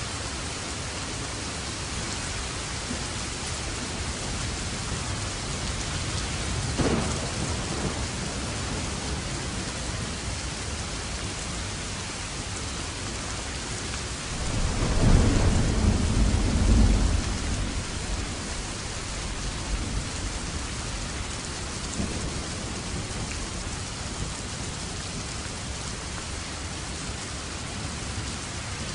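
Steady heavy rain with thunder: a sharp crack about a quarter of the way in, then a long low rolling rumble around the middle, and more thunder beginning right at the end.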